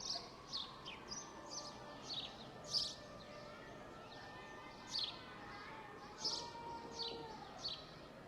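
Small songbirds chirping in a park: short, sharply falling notes, often about two a second, in clusters with pauses between, over a steady background hum of outdoor noise.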